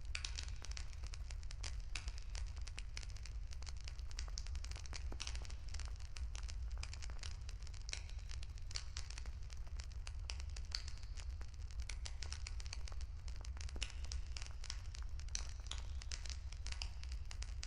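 Wood campfire crackling and popping in a dense, irregular stream of sharp snaps, over a steady low rumble. The crackle is given a deliberate echo.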